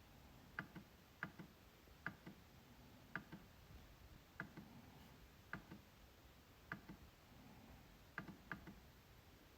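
MacBook trackpad being clicked over and over, about eight clicks at uneven spacing, each heard as a quick double tick.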